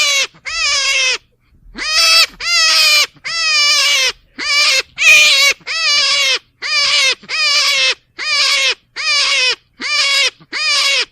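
An animal calling over and over: about fourteen loud, pitched calls of half a second each, separated by short pauses, each dropping in pitch at its end.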